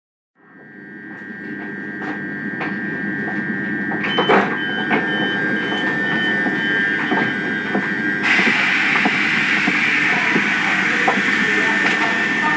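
Train running, fading in: a steady high tone over rumbling noise and scattered clicks, with a louder hiss from about eight seconds in.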